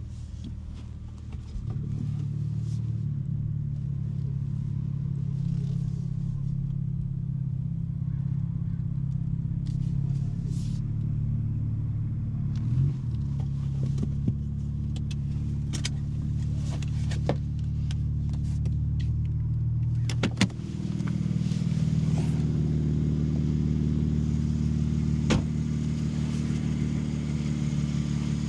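2023 BMW M3 G80's twin-turbo straight-six idling steadily through a non-resonated J-pipe exhaust, with faint clicks and knocks over it. About twenty seconds in there is a single knock, and after it the idle is a little louder and higher in pitch.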